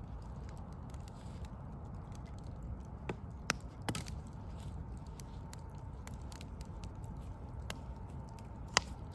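Wood fire of burning logs crackling, with a few scattered sharp pops, the loudest near the end, over a steady low rumble of distant city noise.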